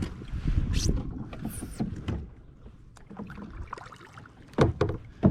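Casting from a kayak: two brief whizzes of line off the fishing reel about a second in, then quieter reel and handling noise, and a few sharp knocks against the kayak near the end.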